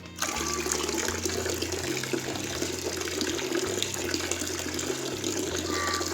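Water running steadily into a container as chick drinking water is topped up. It starts just after the beginning and keeps going evenly.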